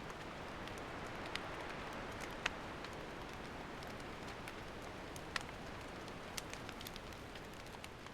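Wood campfire crackling: a steady hiss with scattered sharp pops, the loudest about two and a half seconds in.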